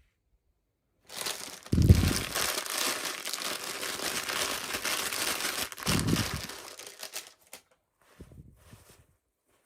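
Packaging being crinkled and handled, with two dull bumps about two and six seconds in, then fading to light rustling.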